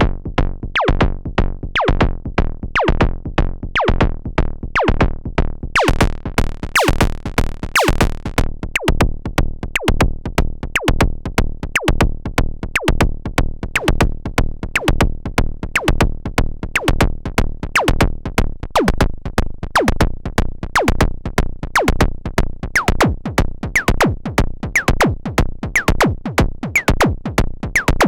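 Analog percussion synthesizer playing a sequenced drum pattern, each hit a sharp downward pitch sweep. About six seconds in, the pattern gets busier and brighter in its upper range.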